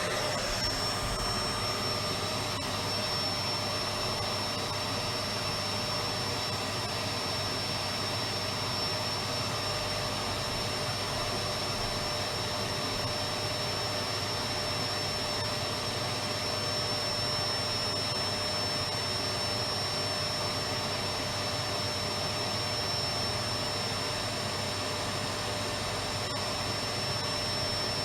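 Electric vacuum cleaner running steadily: a constant rush of air with a high motor whine on top.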